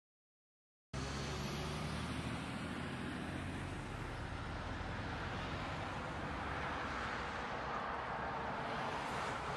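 Steady road and engine noise of a moving vehicle, starting abruptly about a second in after dead silence.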